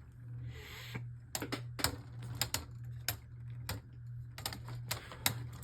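Beyblade spinning tops battling in a plastic stadium: irregular sharp clicks as they collide, over a steady low hum.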